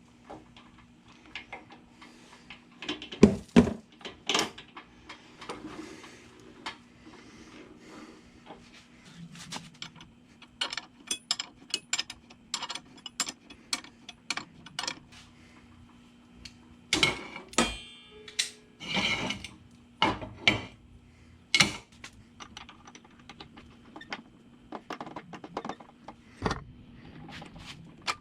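Hand tools and metal parts clanking and knocking in irregular bursts during brake work, with a quick run of ratchet clicks partway through.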